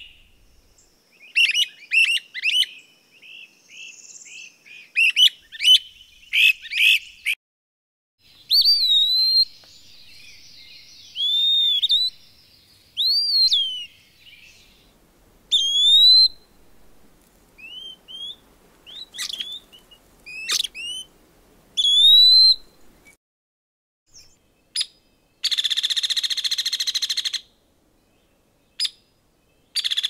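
Calls of several different bird species, one after another: a run of quick high chirps, then separate slurred whistled notes rising and falling, then a harsh buzzing call near the end.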